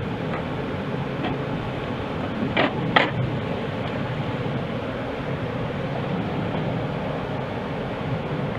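Honeybee swarm buzzing steadily as a dense, even hum at the hive box, the bees being hived. Two sharp knocks come close together about two and a half seconds in.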